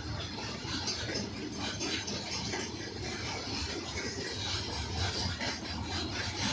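Goods train rolling past on the rails: a steady low rumble with irregular clatter from the wheels.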